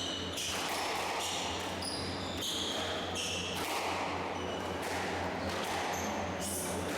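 Squash rally on a court: the ball cracks off racket and walls several times while shoes squeak in short bursts on the wooden floor, over a steady low hum.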